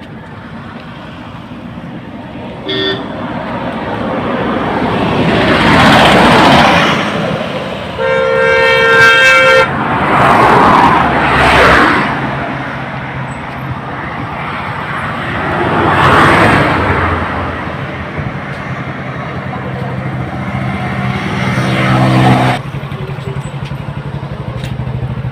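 Road traffic: vehicles passing one after another, each swelling and fading away. A short horn beep comes a few seconds in, and a vehicle horn sounds for about a second and a half about a third of the way through. Near the end, a low engine drone cuts off suddenly.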